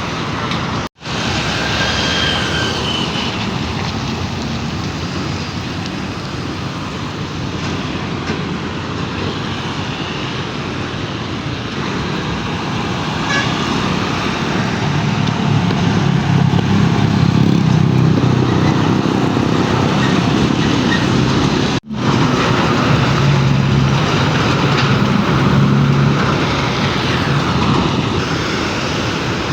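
Heavy truck traffic on a road: a steady noise of engines and tyres, with a deeper engine rumble building up about halfway through. The sound cuts out for an instant twice.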